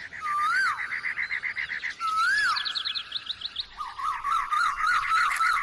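Several birds calling: a fast, steady trill runs throughout, a rising-and-falling whistle comes twice, and a quick run of up-and-down notes follows near the end.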